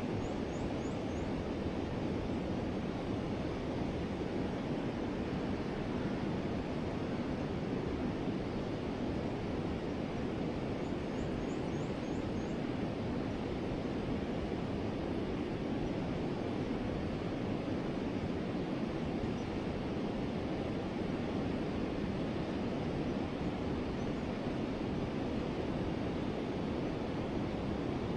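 A forest river flowing steadily, a constant rushing of water. Faint, high, quick chirps come twice: once near the start and again about eleven seconds in.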